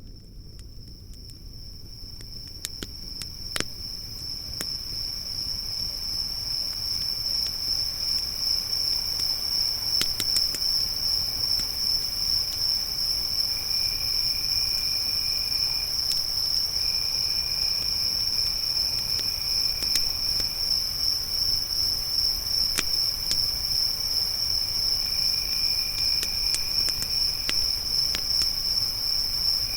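Crickets chirping in a steady, high, continuous trill, with a second, lower-pitched insect trill joining in several stretches. Scattered sharp pops of a crackling campfire sound through it. The whole sound swells up over the first several seconds, then holds steady.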